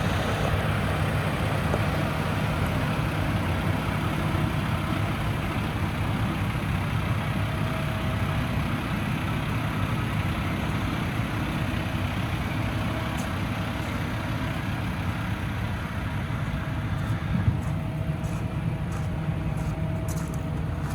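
Paccar MX-13 inline-six diesel in a 2015 Peterbilt 579 tractor idling steadily.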